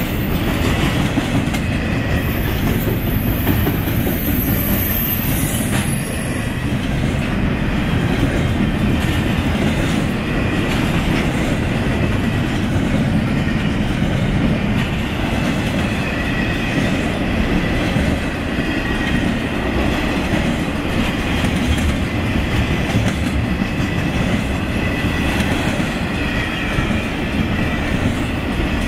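Cars of an intermodal freight train (double-stack containers and trailers) rolling past at a grade crossing: a steady heavy rumble of wheels on rail with clickety-clack. Faint high steady tones sit on top.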